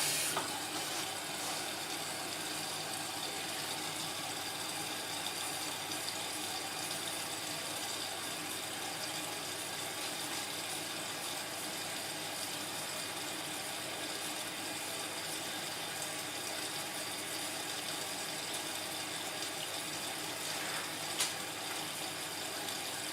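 Indesit washing machine taking in water at the start of its Cotton 45 cycle: a steady rush of water filling the drum through the inlet valve. A single brief click comes near the end.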